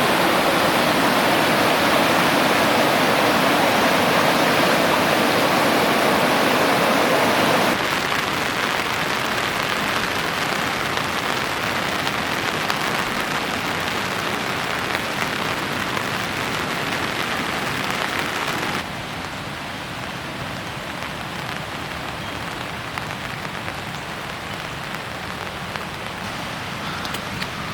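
Steady rushing of a flood-swollen creek. The loudness drops suddenly twice.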